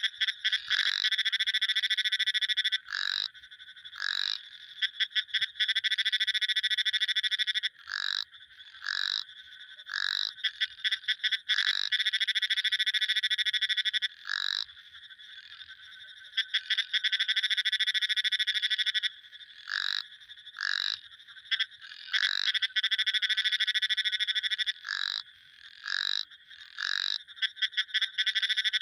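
Frogs calling: rapid pulsed trills, some held for two to three seconds and others cut short, starting and stopping again and again with brief pauses between.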